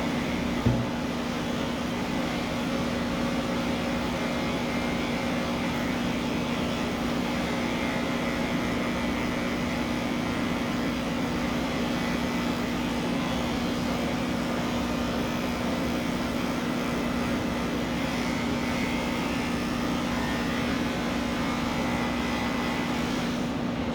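Electric pet clippers running steadily with a constant hum while shaving a cat's coat, stopping near the end. A short knock about a second in.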